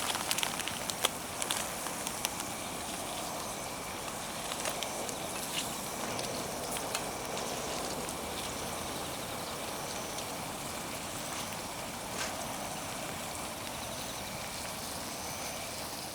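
Campfire burning: a steady hiss with a few sharp crackles in the first couple of seconds.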